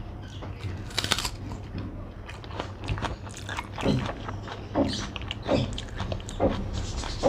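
Close-miked eating sounds: a mouthful of rice and curry being chewed, with wet mouth clicks and smacks about once a second, and fingers mixing rice on the plate.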